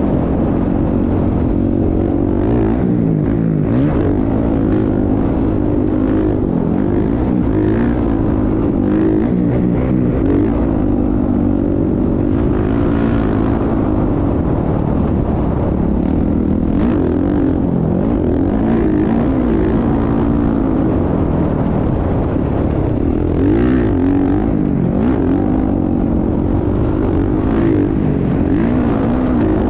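Motocross bike engine running continuously, its pitch rising and falling as the throttle is worked.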